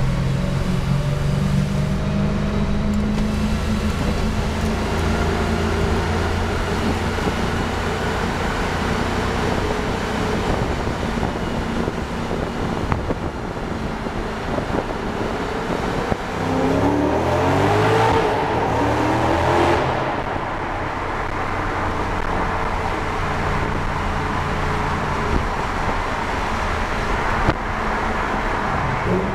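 2007 Audi S4's 4.2-litre V8 through a Fast Intentions/JHM fullback exhaust, running steadily. A little past halfway the revs climb in several quick rising steps for about four seconds, growing louder, then settle back to steady running.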